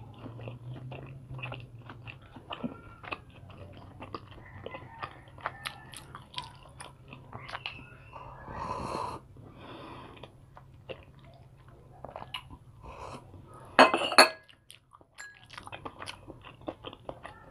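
Close-up chewing and small wet mouth noises of eating fish balls. About eight seconds in there is a longer slurp as the sauce is drunk straight from a small bowl, and about fourteen seconds in there is a brief, loud clatter.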